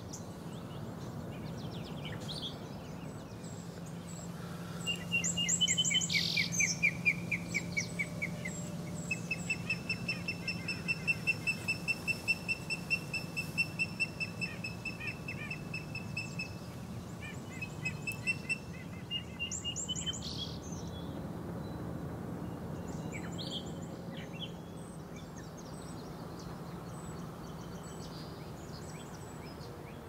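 Songbirds singing by a river: a few trilled songs of rapid repeated high notes, the longest an even trill lasting several seconds, with scattered fainter calls later. Underneath runs a steady low background noise.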